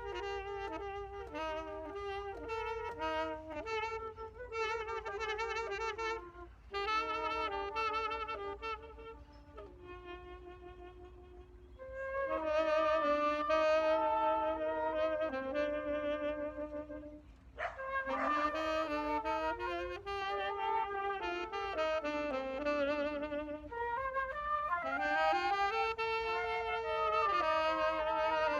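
Instrumental jam: melodic lines with vibrato, at times two parts overlapping, softer for a couple of seconds about ten seconds in. There is a single sharp click about seventeen seconds in.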